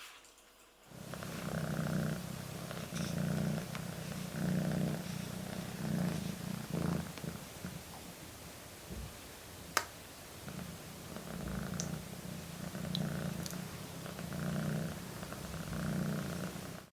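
A kitten purring close up, in regular swells about every second and a half as it breathes in and out. One sharp click sounds partway through.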